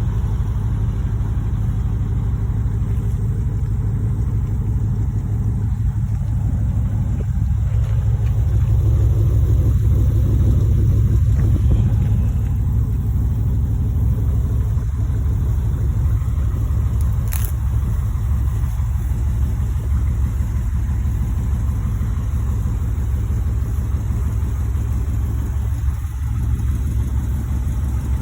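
1982 GMC 2500 truck's engine running steadily with a deep, low rumble, getting a little louder for a few seconds about a third of the way in. A single short click partway through.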